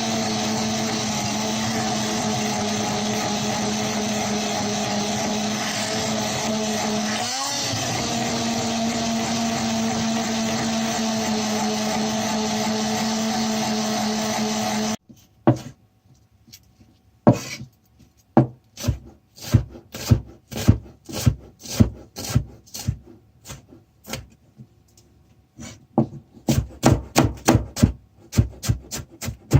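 A small electric kitchen motor runs steadily at a constant pitch, sagging briefly under load about halfway, then cuts off suddenly about halfway through. It is followed by a run of separate sharp scraping strokes on wood, uneven at first and coming faster, about three or four a second, near the end.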